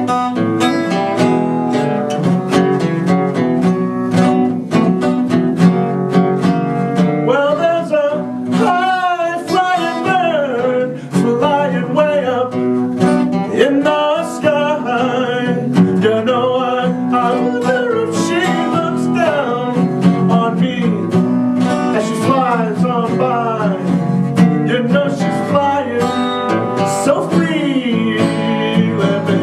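Acoustic guitar strummed and picked under a singing voice in a country-blues song. The guitar plays alone at first, and the voice comes in about seven seconds in.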